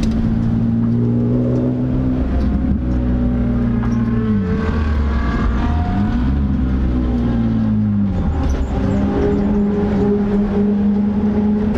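A BMW M3 race car's engine heard from inside the cabin, running at low, steady revs as the car rolls slowly along. The revs drop and pick up again twice near the middle.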